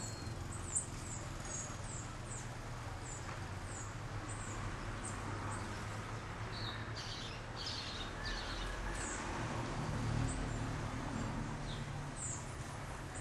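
Birds chirping: short, high, downward-slurred chirps repeated irregularly, with a brief cluster of lower notes about halfway through, over a steady low background hum.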